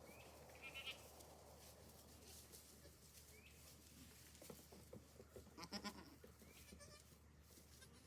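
Goats bleating faintly: a short, high bleat about a second in and a louder, quavering bleat near six seconds, over quiet background.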